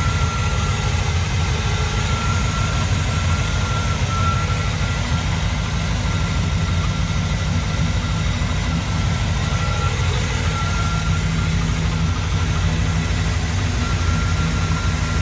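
A 1957 Chevrolet 3100 pickup's 350 small-block V8 idling steadily with the hood open, nice and quiet, its electric cooling fan not running. A thin steady high whine runs alongside it, and the low engine note firms up slightly about ten seconds in.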